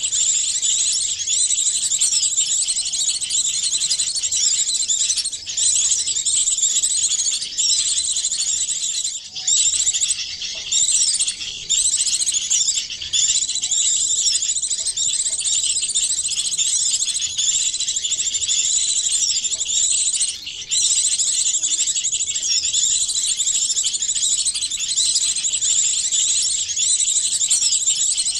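Many small songbirds' high-pitched chirps and trills layered into one dense, nearly continuous chorus, a combined bird-lure recording for drawing small birds in, with a few brief breaks.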